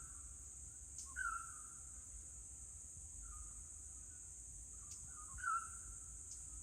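Forest ambience: a bird gives a short whistled call about four times, two of them louder, over a steady high-pitched insect drone and a low rumble.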